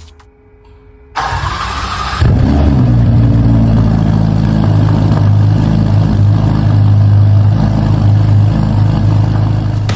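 Engine cranking for about a second, catching a little after two seconds in, and settling into a steady idle.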